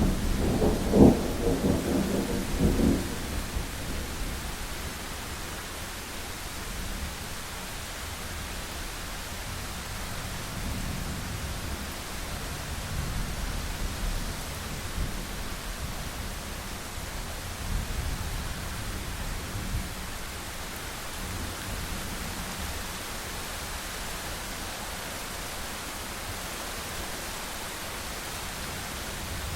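Thunderstorm: steady heavy rain with a loud roll of thunder in the first few seconds, then fainter low rumbles of distant thunder under the rain.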